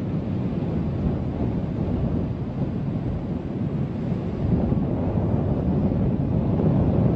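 Strong wind rushing over the microphone, a steady low rumble that rises and falls a little without stopping.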